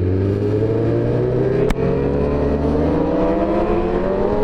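BMW S1000RR superbike's inline-four engine pulling under acceleration, its pitch climbing steadily. There is a brief sharp click with a short dip in level a little under two seconds in.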